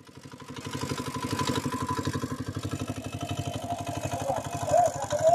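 Small engine running steadily with a rapid, even pulse, fading in over the first second or so.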